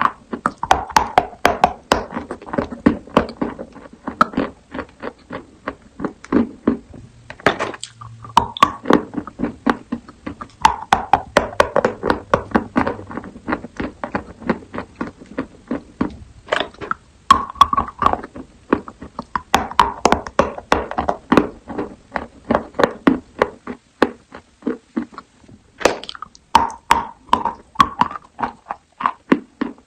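Close-miked chewing and crunching of edible chalk: crisp crunches several times a second, broken by a few short pauses.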